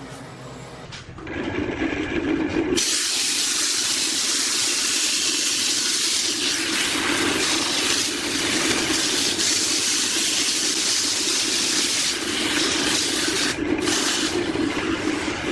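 Water running steadily from a tap, starting softly about a second in and coming to full flow about three seconds in.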